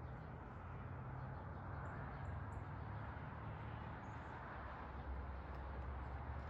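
Backyard ambience: a steady low rumble and hiss, with a few faint, very high bird chirps about two seconds in and again about four seconds in.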